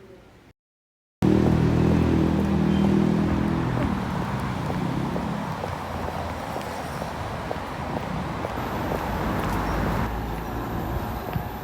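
Street traffic: a motor vehicle's engine runs loud and close for the first few seconds after a cut, then fades into steady road noise.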